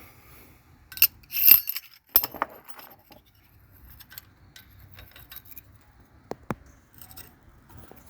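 Metallic clicks and clinks from a Fiat Gran Siena 1.4 clutch kit part being worked by hand, with a few sharp clicks in the first couple of seconds and two short metallic rings later. It is an abnormal noise from the part, which the mechanic finds not normal.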